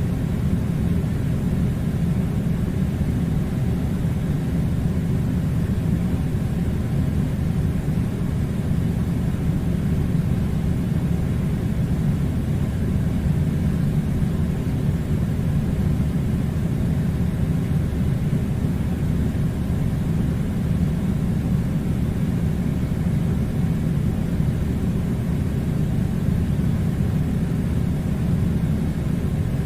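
Steady low rumbling noise, even and unbroken throughout, with no distinct events.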